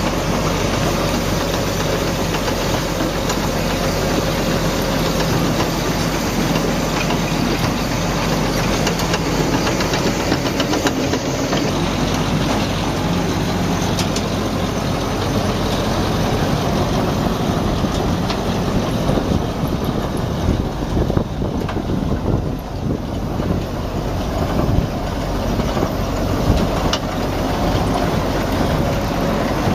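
Heavy machinery running steadily: an engine drone with mechanical clatter.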